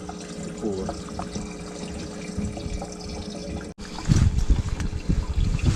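Water trickling and splashing beside the boat. A cut about four seconds in brings louder, rough low rumbling of strong wind on the microphone.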